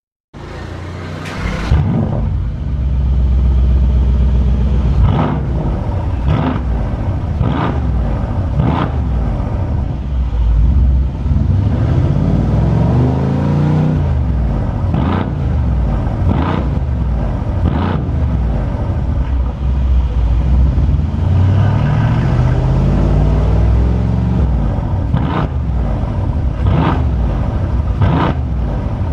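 Mercedes-AMG C63 Cabriolet's 4.0-litre twin-turbo V8 through an aftermarket HE'ART exhaust system, starting up with a sharp crack and then blipped repeatedly, roughly once a second, each blip ending in a crack from the exhaust. Twice it is held in a longer rising rev.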